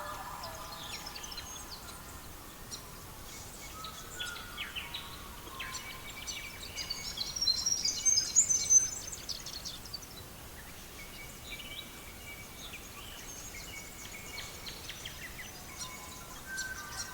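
Songbirds chirping and singing in short, high calls, busiest about halfway through, over a faint steady background hiss.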